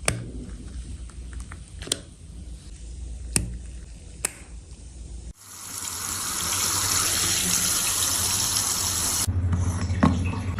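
A few sharp clicks and taps of makeup containers and tools being handled over a low hum. Then a loud, steady hiss runs for about four seconds and cuts off suddenly, followed by a few light knocks.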